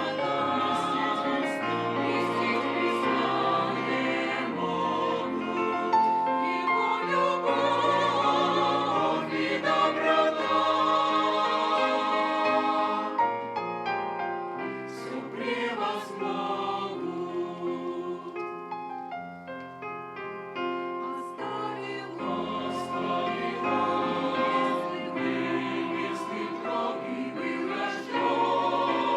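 Church choir singing a Russian hymn in several voice parts. Around the middle the sound thins out and grows quieter for several seconds, then the full choir comes back in.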